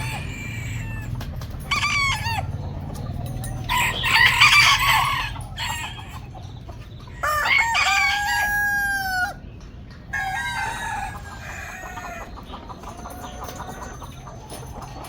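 Chickens calling: roosters crowing and hens clucking, with several calls overlapping, and one long crow held for about two seconds near the middle.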